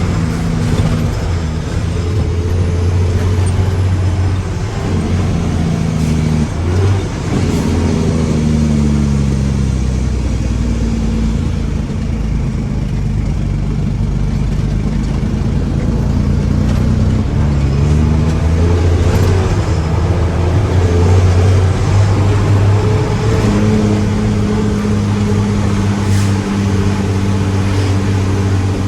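Mack truck's diesel engine running steadily, its pitch rising and falling a few times as the engine revs up and settles.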